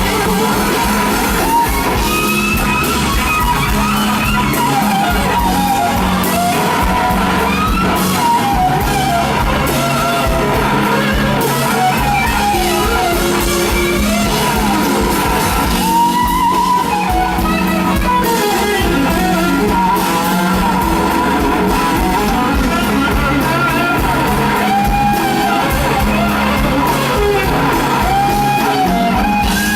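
Live blues-rock band playing a slow blues, with an electric guitar taking a lead solo of bending, sliding notes over steady bass and drums.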